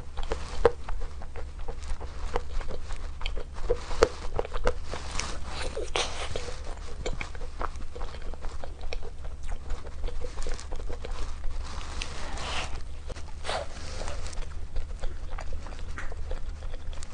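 Close-miked chewing and mouth sounds of someone eating, with irregular wet smacks and clicks over a steady low hum.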